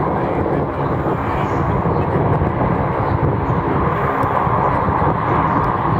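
Engines of a Saab 340B twin turboprop airliner running, a loud steady rumble with no sharp change.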